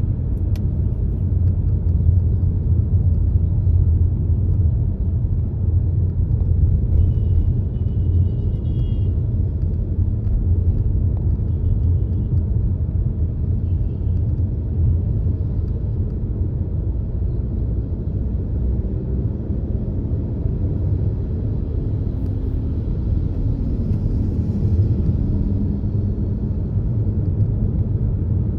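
Steady low rumble of a moving car's road and engine noise, with faint high chirps about a quarter of the way in.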